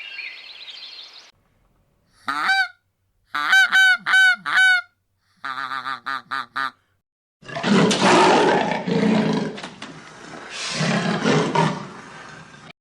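Several separate animal calls cut one after another: a single short call, then four loud honks, then a rapid run of about six shorter, lower calls. It ends with about five seconds of a harsh, noisy call that swells twice.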